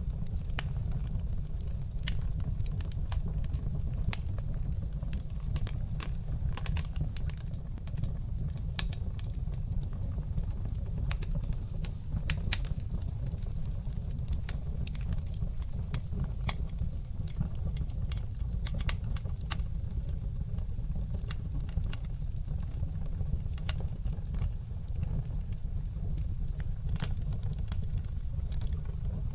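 Fireplace fire crackling: a steady low rumble of the flames with many sharp pops and crackles at irregular intervals.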